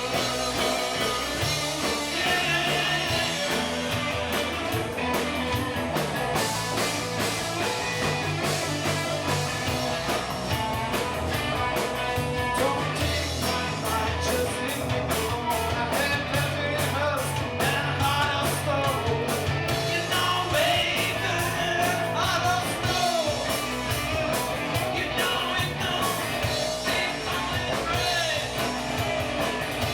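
Live rock band playing, with electric guitar, bass, drums and a singer.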